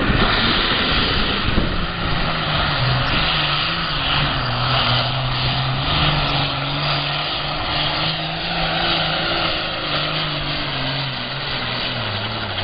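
John Deere 7810 super farm pulling tractor's diesel engine running flat out under load while pulling the sled. It is loud from a hard start, with the engine note wavering up and down as it works.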